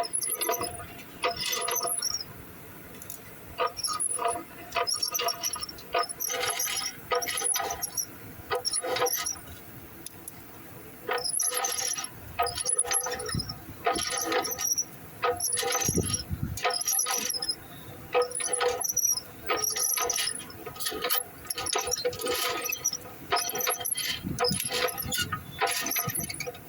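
Heavy truck automatic gearbox, run low on oil, squealing in repeated short, irregular bursts about once a second. The squeal is the sign of a synchro cone fault.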